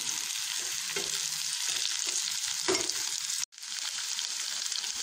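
Chicken, onion and capsicum sizzling in a nonstick wok over a high gas flame, with a spatula stirring and scraping through the pieces. The sound cuts out suddenly for an instant about three and a half seconds in.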